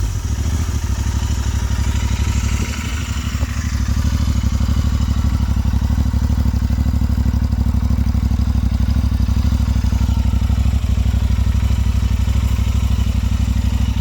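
Royal Enfield Interceptor 650's parallel-twin engine idling through AEW TE 201 aftermarket mufflers with the dB-killer baffles fitted, giving a steady, even exhaust beat. It sounds open but not super loud.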